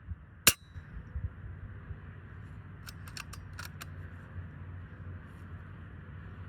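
FX Impact M4 .22 PCP air rifle firing a single shot about half a second in: one sharp crack. A quick run of about five light clicks follows around three seconds in.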